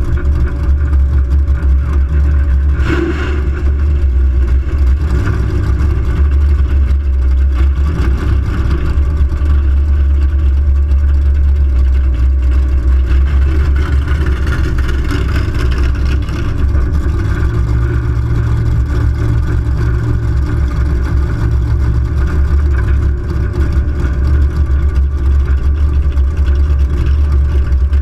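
Chevrolet Nova's engine idling loudly and steadily, a deep low rumble that holds even with no real revs.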